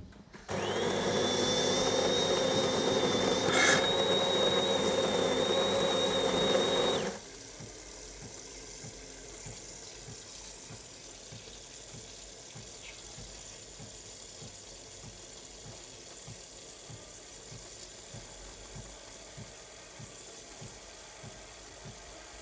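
De'Longhi Dinamica Plus bean-to-cup coffee machine running loudly with a steady high whine for about six and a half seconds, then cutting off abruptly. A quieter steady hum with faint low ticks about twice a second carries on after it.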